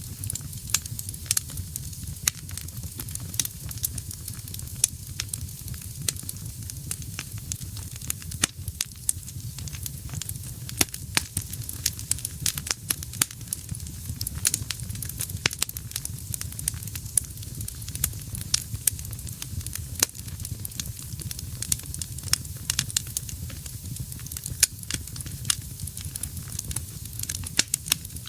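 Wood fire burning in a fireplace, with frequent irregular sharp crackles and pops over a steady low rumble of the flames.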